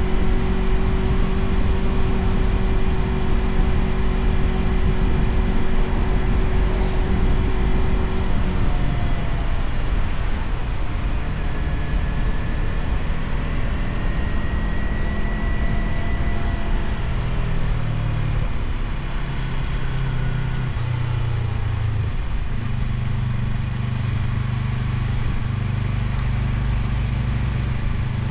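Motorcycle engine running on the move at a steady note. About eight seconds in the note drops as the rider eases off, and it later settles lower with a few step changes in pitch.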